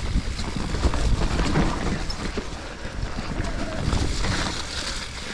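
Specialized Levo electric mountain bike riding a rough forest trail: wind buffets the microphone over the rumble of the tyres and the rattle of the bike over rough ground.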